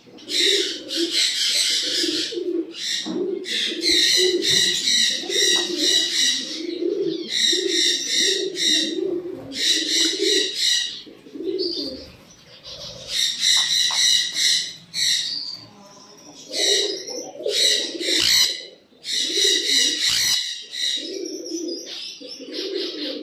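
Caged birds calling together: a low, pulsing dove-like cooing runs on throughout, broken by repeated bursts of loud, high chirping about a second long.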